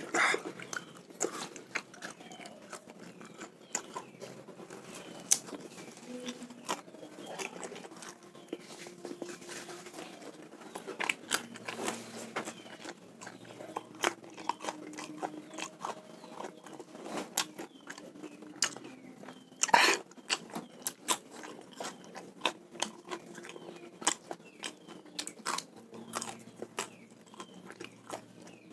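Close-up chewing and crunching of raw salted snakehead fish that has only been sun-dried, not fried: a steady run of small crisp crunches and wet mouth sounds, with a sharper crunch about twenty seconds in.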